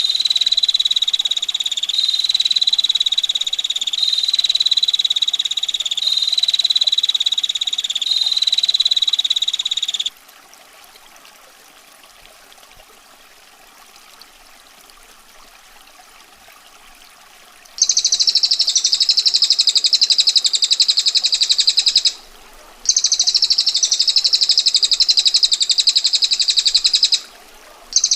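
Female prinia (prenjak) giving its harsh, buzzy rattling trill ('ngetir') without a break for about ten seconds. After a quiet gap of about eight seconds come long, fast rattling trills in three bouts, separated by short pauses.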